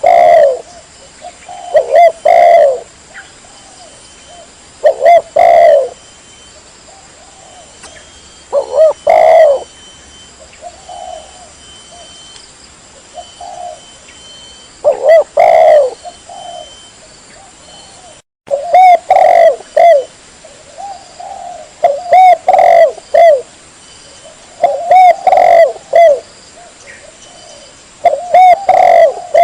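Spotted dove (tekukur) cooing loudly and clearly, in repeated phrases of two or three low coos every few seconds, with a brief break about eighteen seconds in.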